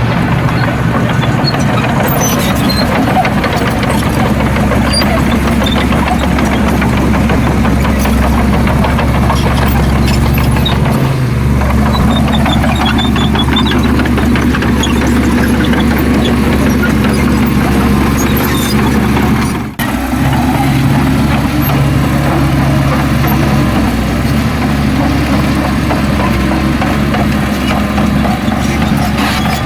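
Heavy diesel engine of earthmoving machinery running steadily, with a momentary break in the sound about two-thirds of the way through.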